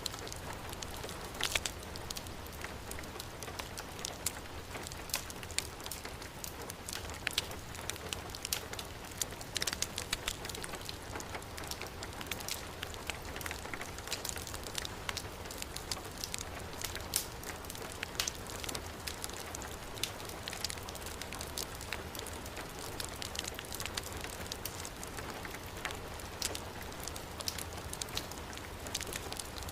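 Heavy rain falling steadily, mixed with a fireplace fire crackling and popping throughout.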